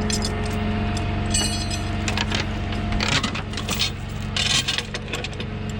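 An engine idling steadily, with metal chain links and a hook clinking and jangling as the chain is wrapped and hooked up.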